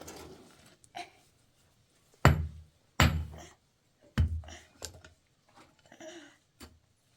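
Three heavy thuds over about two seconds, each sharp with a short ring-off, followed by a few lighter knocks.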